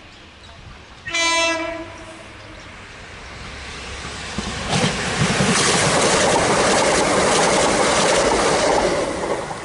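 A passenger train sounds its horn once, briefly, about a second in. Then it passes close by, the noise of its wheels on the rails building from about halfway through and staying loud until it cuts off at the end.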